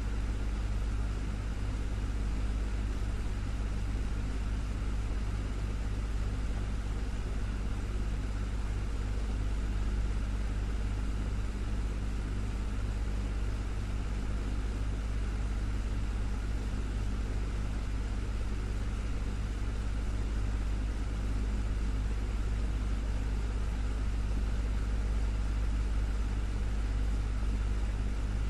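Desktop fan running steadily: an even, low hum with a soft rush of air.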